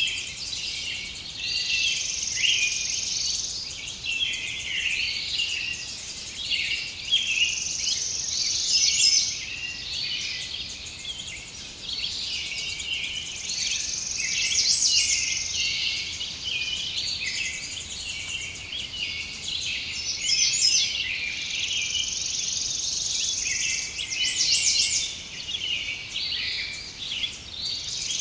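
Forest birds chirping and singing over one another, with a high buzzing trill that swells up every five or six seconds.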